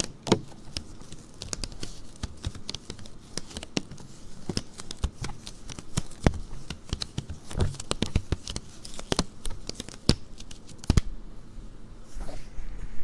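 Close-up handling noises: a dense, irregular run of small clicks, taps and crinkles from objects being handled near the microphone, with a quieter stretch about eleven seconds in.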